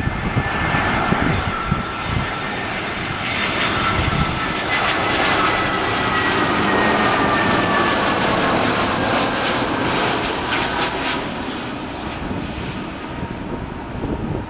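Airbus A320 jet airliner flying past on its landing approach: the engine roar carries a whine that slowly falls in pitch, swelling to its loudest about halfway through and fading off towards the end. Wind gusts on the microphone.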